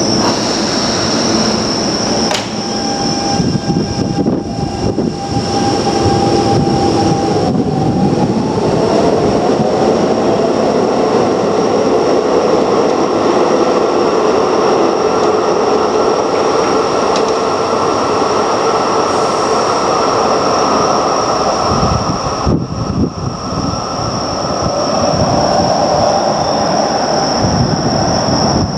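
Keio Line electric train running, a steady loud rumble of wheels and car noise with a motor whine that rises in pitch about eight seconds in.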